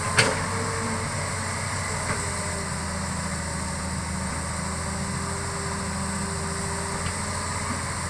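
Hitachi excavator's diesel engine running steadily, with a sharp knock a fraction of a second in and a few faint ticks later.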